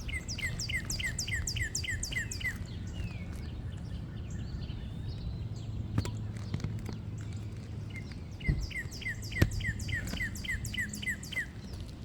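A songbird singing a fast run of repeated downslurred notes, about four a second, twice: once at the start and again from about eight seconds in. A few sharp clicks or knocks and a steady low rumble sit underneath.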